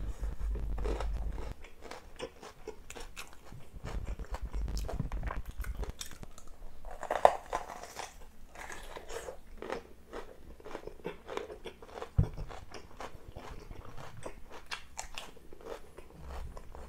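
Close-miked chewing of hand-eaten rice, then one loud crunching bite into a whole raw red bell pepper about seven seconds in, followed by crisp crunchy chewing.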